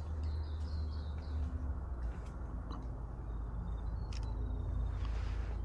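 Faint high bird chirps: a short warbling call near the start, then a few brief chirps later on, over a steady low rumble of wind on the microphone.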